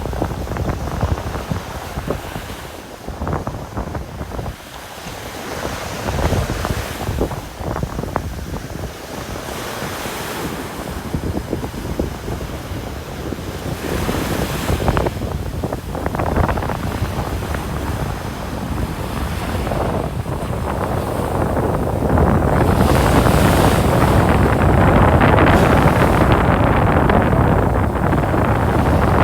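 Ocean surf washing onto a sandy beach, with wind rushing over the microphone. The sound swells and grows louder and steadier about three-quarters of the way through.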